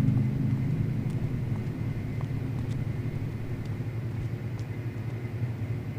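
A low, steady rumble that slowly fades away.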